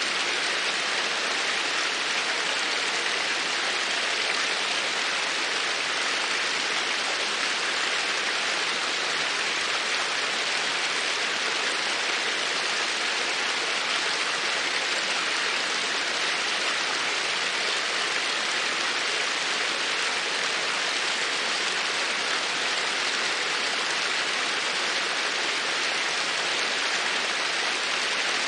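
Steady rush of water, an even, unbroken hiss with no drips, chimes or changes standing out.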